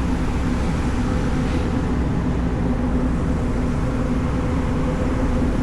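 Car ferry's engines running steadily at cruising speed, a constant low drone with a steady hum.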